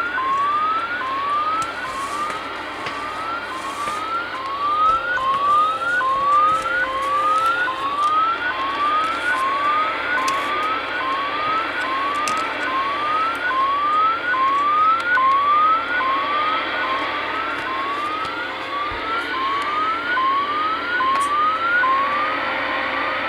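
Unidentified alarm-like signal received on a CB radio's channel 38 lower sideband: short rising tone chirps repeat about once a second over steady radio static.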